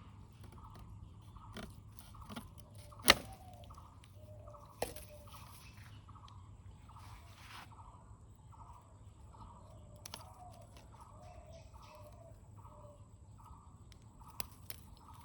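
A sharp, loud click about three seconds in and a smaller one near five seconds, with a few lighter taps, over faint chirping that repeats about twice a second.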